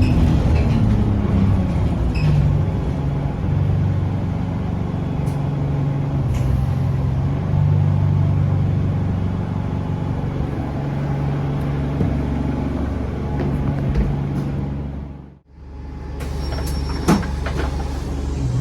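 Diesel bus engine running under way, its low drone shifting as the bus drives. The sound drops out abruptly about three-quarters of the way through, then resumes with the engine running and a few sharp clicks.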